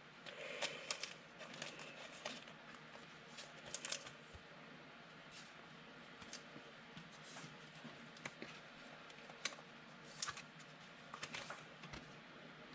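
Trading cards being slid into plastic sleeves and handled: faint plastic rustling and scattered light clicks, a few a little louder about four seconds in and again near the end.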